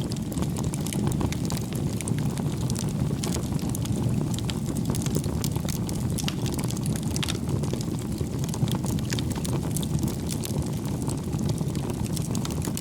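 Wood fire burning in a fireplace: the flames make a steady low rumble, with frequent small crackles and pops from the burning wood.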